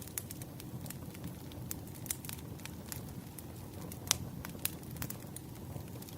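Wood fire burning: irregular sharp crackles and pops over a steady low rush of flames, with one louder pop about four seconds in.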